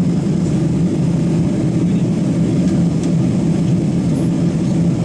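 Steady low roar inside a Boeing 777-300ER's cabin in flight: engine and airflow noise from its GE90 turbofans, with a constant low hum.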